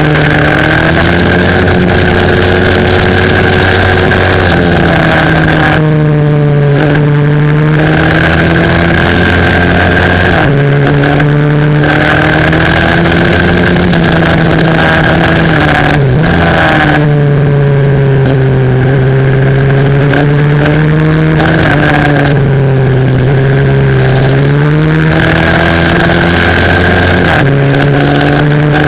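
Single-cylinder four-stroke pit bike engine heard from an onboard camera on the bike, loud throughout, its revs rising and falling over and over as it accelerates and slows through a lap, with sharp drops in pitch about six, eleven, sixteen and twenty-four seconds in.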